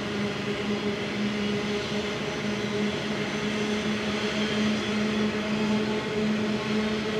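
Loaded coal hopper wagons of a long freight train rolling steadily along the track, a continuous rumble with a constant low hum running through it.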